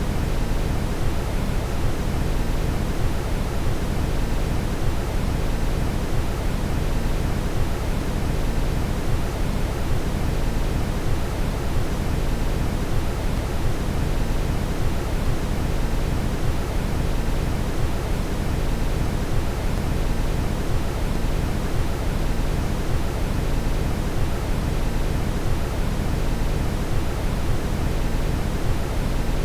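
Steady synthetic brown noise: an even, deep rushing hiss, heaviest in the low end, that does not change.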